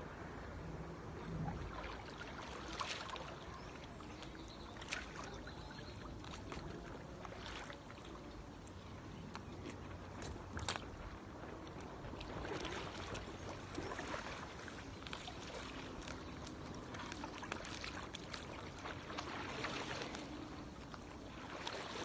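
Faint paddle strokes in water: a splash and trickle from the blade every couple of seconds, at an uneven pace.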